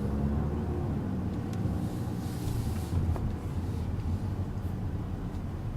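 Steady low rumble of a 2014 Chevrolet Impala's 2.5-litre four-cylinder engine and tyres, heard from inside the cabin.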